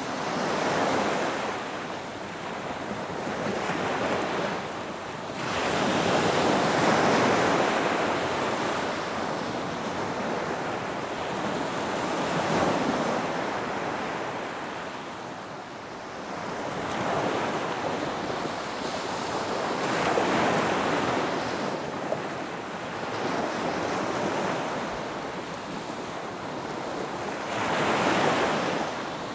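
Ocean waves breaking and washing up on a beach, the surf swelling and ebbing every few seconds, with a steady hiss of wind beneath.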